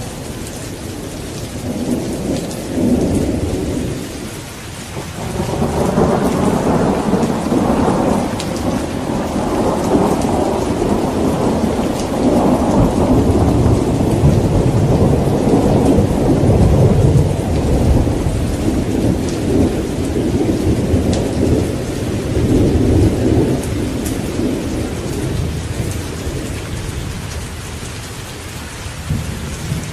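Thunderstorm: steady rain with rolling thunder. A short rumble comes about two seconds in, then a long rumble builds from about five seconds in, swells through the middle and slowly fades toward the end.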